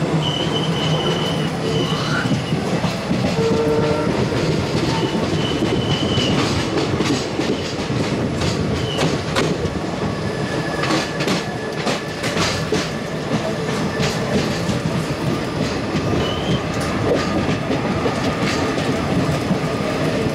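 Passenger train coaches running down a steep grade, heard from inside a coach: a steady rumble of wheels on rail with irregular clicks and clatter over the joints. Brief high-pitched wheel squeals come and go, mostly in the first few seconds.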